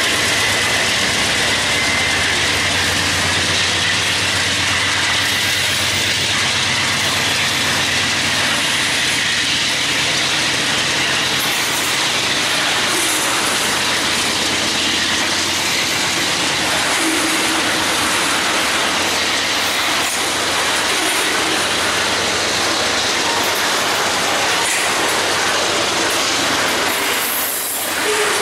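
Tank cars of a loaded ethanol unit train rolling past, a steady wheel-on-rail rumble with clickety-clack over rail joints. A thin wheel squeal and a low hum sound through the first several seconds and then fade.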